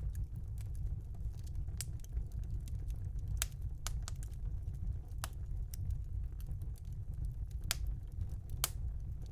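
Fire burning in a fireplace: a steady low rumble with sharp, irregular crackles and pops, about eight or nine of them.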